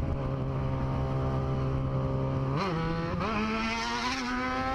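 Motorcycle engine running at a steady pitch, then a quick rev about two and a half seconds in, after which it pulls away with the pitch slowly rising.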